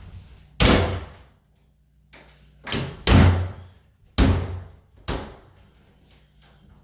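A run of heavy bangs and thuds on wood, about five in the space of four and a half seconds, each dying away quickly, as a cabinet is forced loose.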